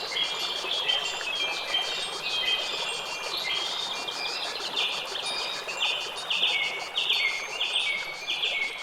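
Several songbirds chirping and calling over a steady rushing background. A run of rapid repeated chirps sets in about halfway through.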